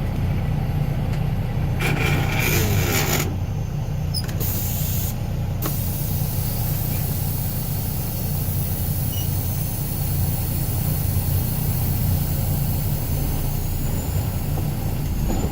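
Semi-truck's diesel engine running steadily, pulling gently against the set trailer brakes in a tug test, with a burst of compressed-air hiss from the brake valves about two seconds in and a shorter, higher hiss around five seconds. The trailer brakes hold.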